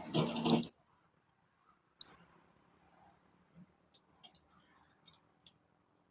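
Blue-crowned hanging parrot (serindit) giving short, sharp, high-pitched chirps: a quick pair about half a second in and a single chirp about two seconds in. A brief low noise sits under the first pair.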